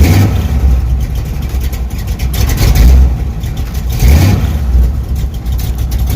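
Chevy 350 small-block V8 running through headers, with the throttle blipped a few times: near the start, around 3 seconds and around 4 seconds.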